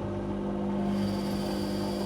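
Whirlpool Indiana 1400 front-loading washing machine running, with a steady mechanical hum. A higher hiss and a thin whine join about halfway in.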